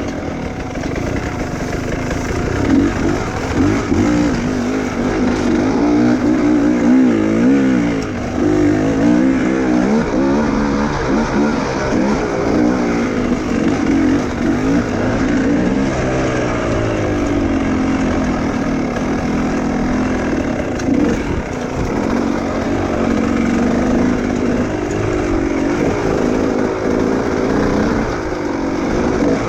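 Enduro motorcycle engine running under constant throttle changes, its pitch rising and falling again and again as the bike is worked through rough terrain.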